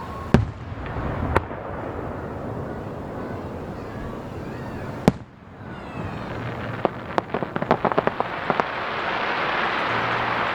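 Fireworks display: sharp shell bursts about half a second, a second and a half and five seconds in. From about seven seconds a rapid string of pops follows, swelling into a dense crackling hiss near the end.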